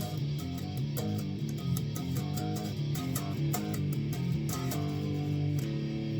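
Guitar played with a pick in a steady rhythm of about four strokes a second, with notes and chords low on the neck around the A string, palm-muted for a deadened sound.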